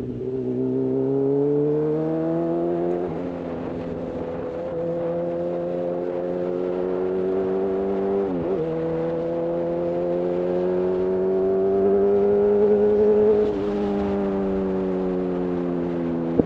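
Honda CB1000R's inline-four engine running through a full-system Black Widow exhaust while riding, revs climbing and settling. About halfway through the revs dip sharply and come straight back up. They climb again, then fall off a few seconds before the end.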